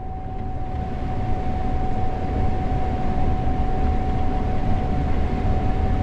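Gleaner S98 combine running while harvesting corn, heard from the cab: a steady low drone of the machine with a steady high whine over it, growing slightly louder.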